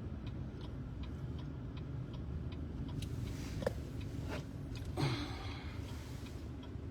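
Car turn signal clicking steadily inside the cabin over a low engine and road rumble, with a couple of brief swishes partway through.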